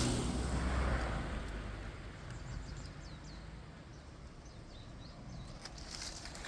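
Birds chirping faintly outdoors, a run of short high calls that each fall in pitch, over an open-air background with a low wind rumble on the microphone at the start that soon dies away.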